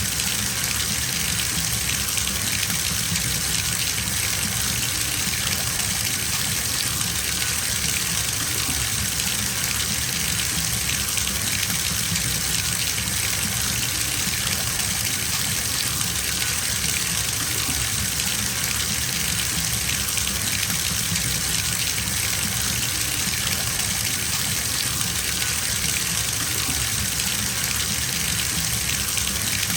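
Bathtub filling from a running tap: a steady gush of water pouring into the tub, even and unchanging throughout.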